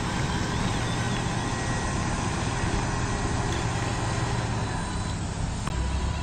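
Radio-controlled construction models running, a steady mechanical hum that drops lower a little before the end.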